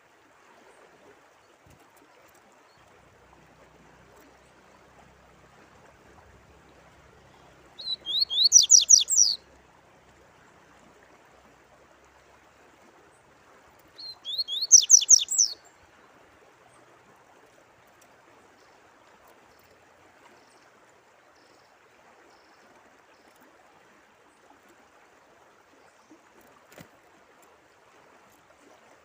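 A songbird sings two short phrases of rapid repeated high notes, about a second and a half each and some five seconds apart, over a faint steady sound of running water.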